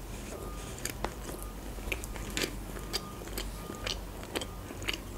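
Close-miked chewing of a bite of Kinder Delice chocolate-coated sponge cake: quiet, irregular wet mouth clicks about every half second.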